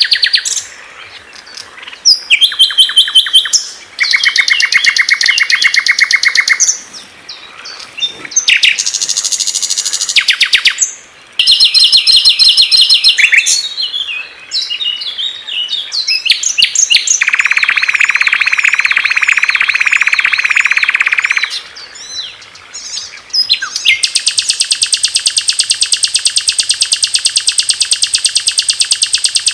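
Songs of various small songbirds played back to back as a masteran tutor recording, each a fast, high trill or chirping phrase lasting a second to a few seconds before it switches abruptly to another. One long even trill runs through the last few seconds.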